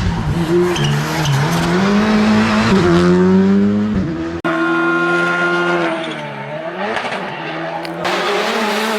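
Rally car engine at full throttle, its pitch climbing steadily, then cutting off abruptly about four and a half seconds in. It picks up again at a high steady pitch, dips briefly around six and a half seconds, and rises again.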